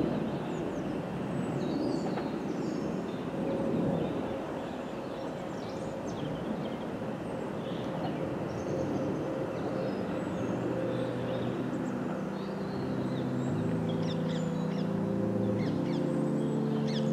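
Class 707 electric multiple unit pulling away, its running noise fading over the first few seconds, with birds calling. About ten seconds in, music fades in over the top.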